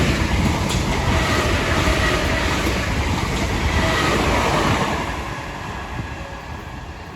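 Class 465 Networker electric multiple unit passing through at speed without stopping: wheels and rails rushing by with some clickety-clack, fading away after about five seconds as the train leaves.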